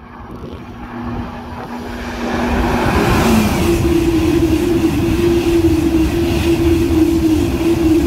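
Eurostar high-speed train passing at speed. The rushing noise of the train builds over the first three seconds, then holds loud and steady as the carriages go by, with a steady hum from its running gear.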